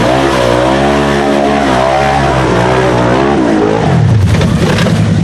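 Off-road vehicle engine revving, its pitch rising and falling repeatedly, then changing to a lower droning note about four seconds in.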